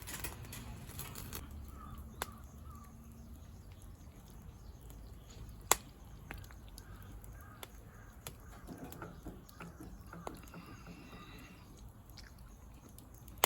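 Crows cawing intermittently, with a few sharp clicks, the loudest about halfway through.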